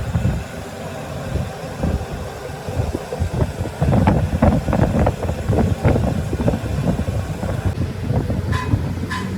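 A machine running with a steady low rumble, with a run of irregular knocks and clatters in the middle.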